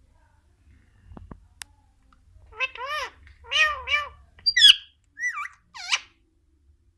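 Green parrot imitating a cat's meow: several arching meow-like calls from about two and a half seconds in. These are followed by a few shorter, sharper calls.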